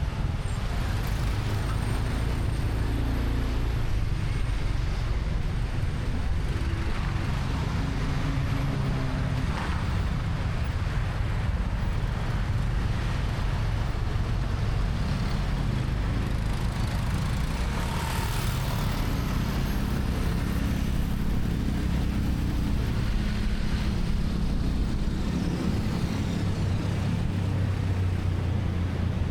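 Motorcycle engine running under way in city traffic, its pitch shifting up and down with speed, over a steady wash of surrounding road noise.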